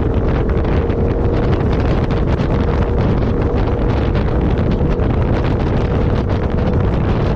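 A 4x4 vehicle driving, with a steady low rumble and a constant hum, and wind buffeting the microphone throughout.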